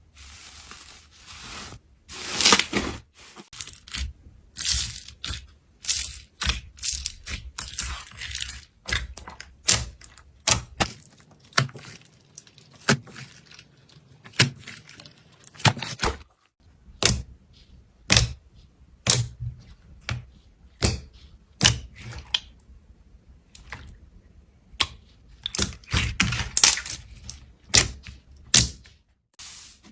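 Slime being squeezed and pressed by hand, giving irregular sharp pops and crackles, often one or two a second with quick clusters between.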